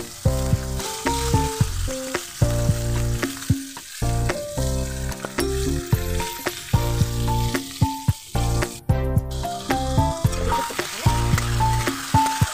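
Sticky rice sizzling as it fries in hot oil in a wok, with a metal spatula stirring near the end. Background music with a melody and steady beat plays over it.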